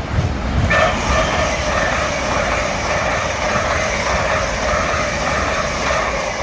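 A train running past on the station tracks: a loud, steady rush of wheel and running noise that comes up sharply about a second in and holds.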